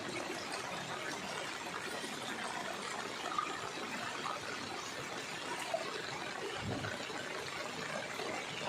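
Floodwater trickling and flowing in a steady, fairly faint wash.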